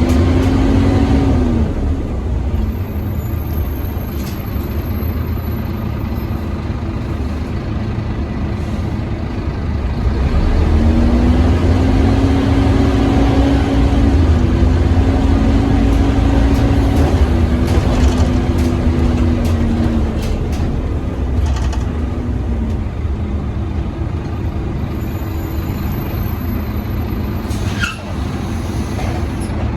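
Scania OmniCity double-decker bus under way, its engine running with a loud vacuum-cleaner-like whine (the 'hoover' sound) that rises as it pulls away about a third of the way in, steps through gear changes and fades by two-thirds of the way through. A short sharp air-brake hiss near the end.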